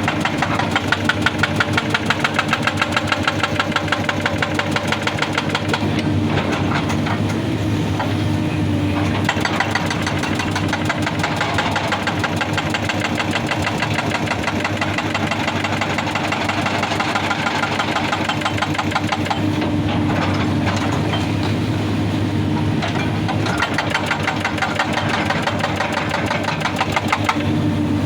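Excavator's diesel engine running under load while its hydraulic breaker hammers rock in a rapid, even stream of blows. The hammering eases off around six seconds in and again around twenty seconds in, leaving the engine hum, then resumes.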